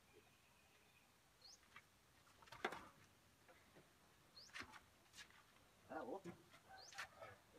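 Mostly near silence, broken by a few faint, short rising bird chirps and one sharp knock a little before the middle.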